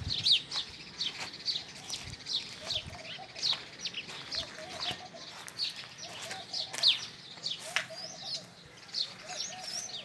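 Small birds chirping steadily: short, sharp, falling chirps a few times a second, with a lower wavering call from another bird returning every second or so.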